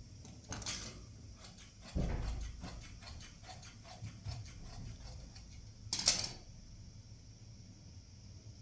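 Household handling noises: a dull thump about two seconds in, a run of small clicks and knocks, and one loud sharp clack about six seconds in.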